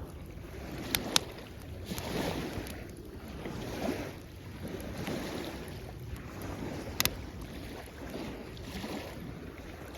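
Waves washing in on the shore in repeated swells, with a campfire crackling: a few sharp pops, two about a second in and one near the middle.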